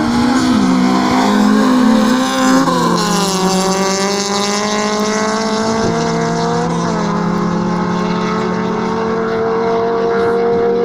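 Drag-racing car engines running at high revs, a steady engine note that steps down in pitch twice, about three and six seconds in.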